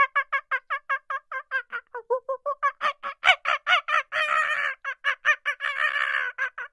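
An animal calling in a fast series of short pitched calls, about five a second, that twice run together into continuous chatter in the second half.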